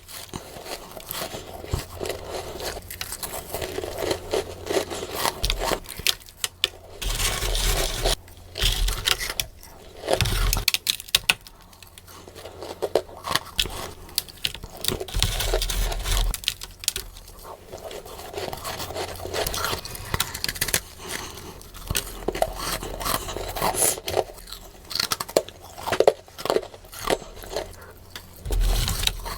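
Freezer frost being bitten and chewed close to the microphone, sped up: runs of crisp crunches and scrapes with short pauses between bites.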